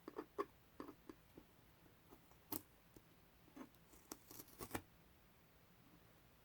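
Masking tape being picked at and peeled, a scattered run of short sticky crackles and clicks in small bunches over the first five seconds.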